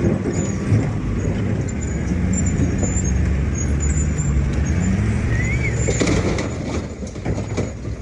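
Excavator's diesel engine running steadily under work, with faint high squeaks and a few sharp knocks near the end.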